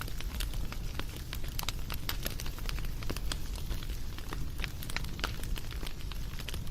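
Wood fire crackling steadily: many small irregular pops and snaps over a low rumble of burning.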